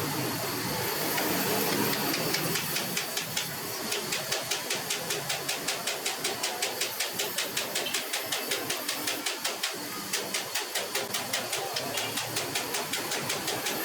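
A workshop machine or tool running with a steady hiss, settling about two seconds in into a regular beat of about four strokes a second.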